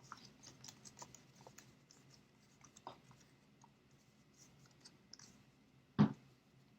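Paper being handled and pressed into place: faint rustles and small ticks, then one louder knock on the table about six seconds in.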